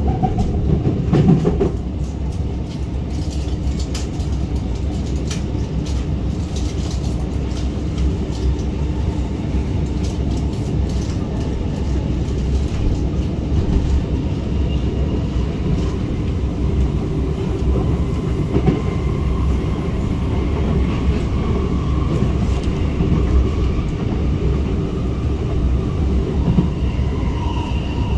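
Inside an R151 MRT train running along an elevated track: a steady rumble of wheels on rail, with a few clicks in the first couple of seconds. In the second half a faint whine drifts up and down in pitch.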